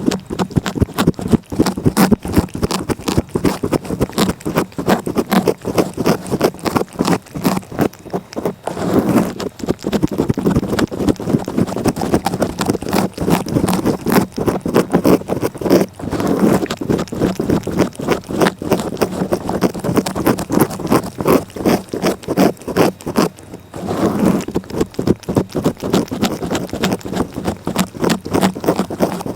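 A cat licking close up in a quick, continuous run of short, scratchy strokes.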